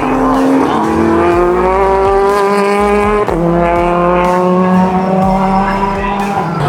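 Race car engine at full throttle, its pitch climbing through the revs, dropping sharply with an upshift about three seconds in, then climbing again.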